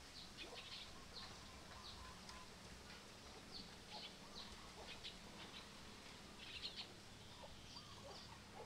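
Faint, quick high chirps of small birds, a few a second, with a cluster of them about two-thirds through, over quiet outdoor background.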